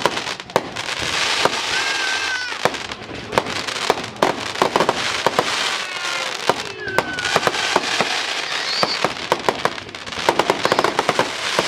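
Fireworks going off: a constant crackle of many sharp pops and cracks over a hiss, with a couple of short whistling tones about two and seven seconds in, and dense clusters of rapid cracks near the end.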